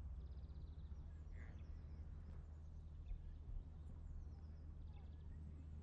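Faint birdsong: a few short high trills and chirps over a steady low hum.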